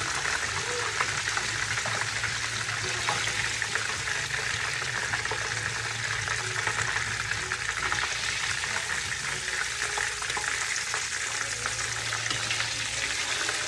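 Hot cooking oil sizzling and crackling steadily in the frying pan, with a steady low hum underneath.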